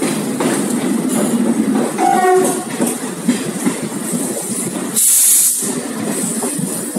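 Indian Railways passenger train running at speed, heard from its open door: a steady rumble of wheels on rails, with a short train horn blast about two seconds in and a loud hiss about five seconds in.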